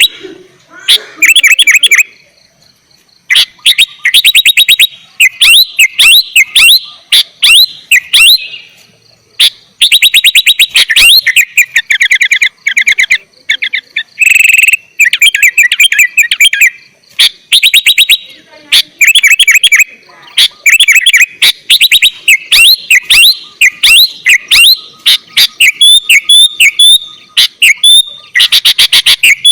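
Sooty-headed bulbul singing loudly in bursts of rapidly repeated chattering notes, with short gaps between phrases and a run of quick sliding whistles near the end.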